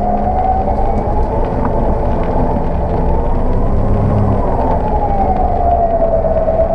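Electric winch motor whining under load, its pitch slowly rising and then falling like a siren, over a low steady rumble of the engine running.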